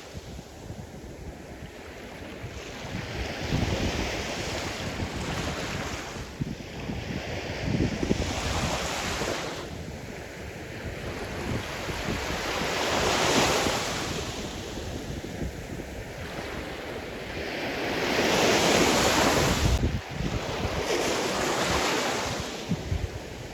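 Sea surf: waves breaking and washing in, swelling and falling in slow surges every few seconds, the biggest about halfway through and near the end, with wind buffeting the microphone.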